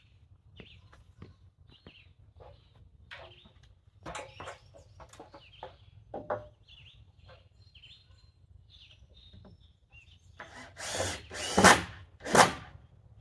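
A power drill runs in three short bursts near the end, after scattered light knocks and clatter of work on wooden framing. Birds chirp faintly in between.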